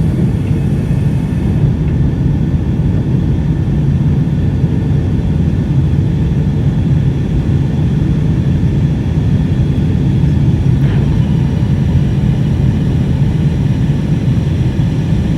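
Delta Boeing 757-200 airliner at takeoff power, heard from inside the cabin as a loud, steady low rumble.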